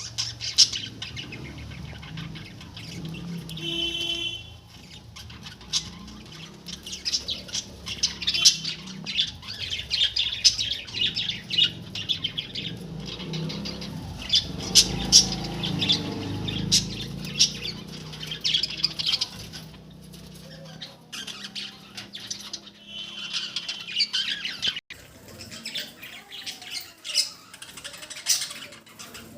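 A flock of pet budgerigars chattering and chirping, with rapid warbles and squawks overlapping almost without a break.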